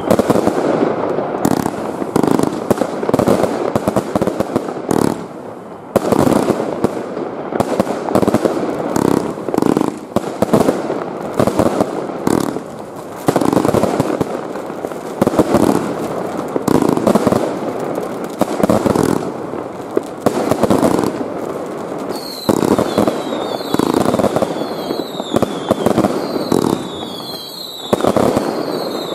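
Fireworks going off densely overhead: a constant run of bangs and crackling from aerial bursts and firecrackers. Near the end, several short whistles fall in pitch among the bangs.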